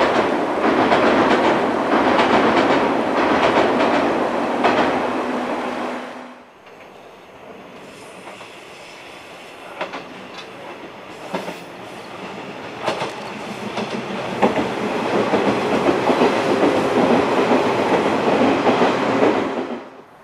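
Electric train, a 115 series, rumbling loudly across a steel truss bridge; the sound cuts off about six seconds in. Then a 107 series electric multiple unit approaches on ballasted double track, its wheels clicking over rail joints a few times before it passes close with a loud steady rumble.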